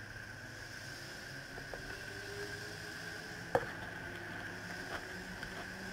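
Sydney Trains electric suburban train running slowly through an underground station, heard from inside the carriage: a steady running noise with a constant high whine, a few light ticks, and one sharp click about three and a half seconds in.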